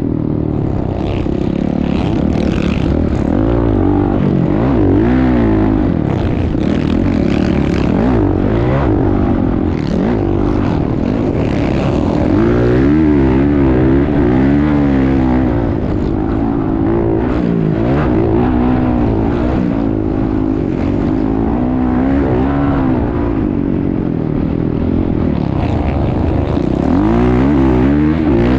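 Motocross bike engine revving hard, its pitch climbing and dropping over and over as the throttle opens and closes and the gears change.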